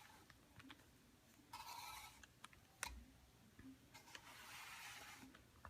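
Faint rubbing swishes of a duster head sliding along a ceiling fan blade, two strokes of about a second each, with a single light click between them.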